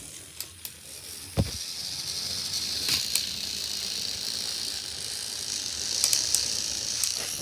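Small battery-powered toy train motors running with a steady high whirring hiss and a few sharp clicks, after a single thump about a second and a half in, as two Thomas & Friends toy engines go head to head in a strength contest.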